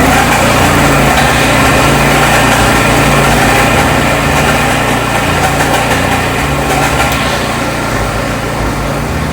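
Wing mower (slope grass cutter) running, its small petrol engine and cutters making a loud, steady mechanical drone with an uneven, fluttering low end.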